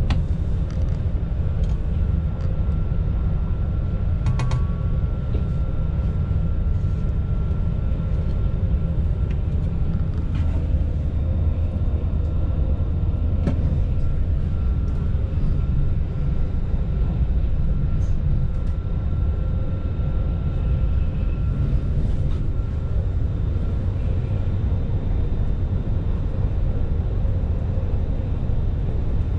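Cabin noise of a Westbahn Stadler KISS double-deck electric train running at speed: a steady low rumble with a faint steady whine, and a few faint clicks.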